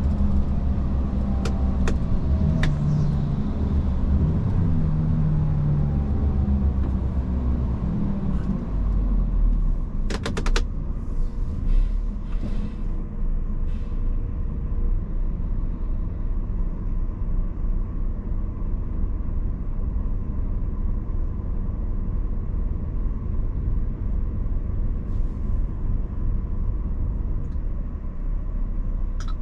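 Iveco S-Way truck driving: its diesel engine runs with a changing pitch for the first several seconds, then gives way to a steady low road rumble. A quick run of clicks comes about ten seconds in.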